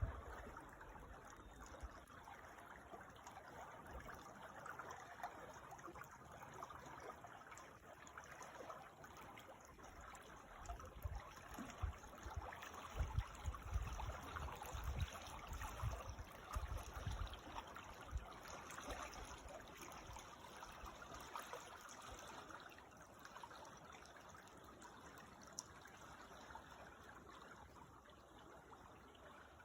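Creek water trickling and babbling steadily, faint. Short low rumbles come and go through the middle of the stretch.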